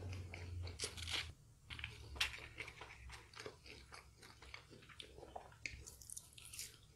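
Crunchy chewing of crispy fried chicken, a run of short crackly crunches. Near the end comes a fresh crisp bite into a sauce-dipped nugget.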